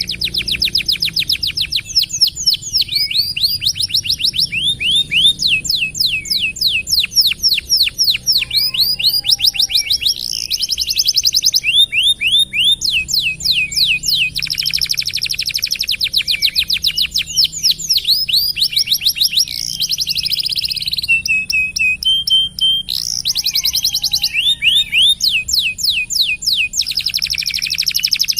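Domestic canary singing in long rolling trills: rapid runs of repeated notes that switch to a new phrase every second or two, with a brief held whistle partway through.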